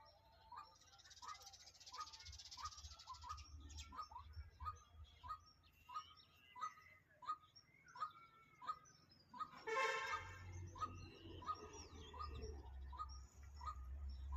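A bird repeating a short call nearly twice a second, with other high chirps around it. A brief, louder buzzy sound cuts in about ten seconds in, followed by a low rumble.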